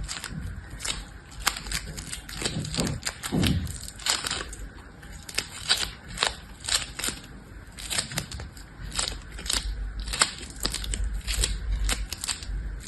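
Crunching and crackling of something being crushed by hand, in irregular sharp crunches several times a second, with a couple of lower scraping sounds about three seconds in.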